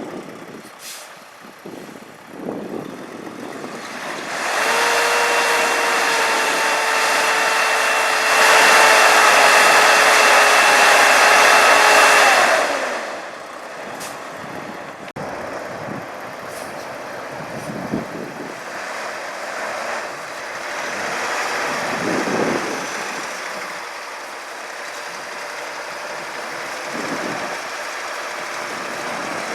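Road vehicle noise: a loud, steady hissing whine starts about four seconds in, gets louder partway through, and stops after about eight seconds with its pitch sliding down. Quieter, uneven road and engine noise follows.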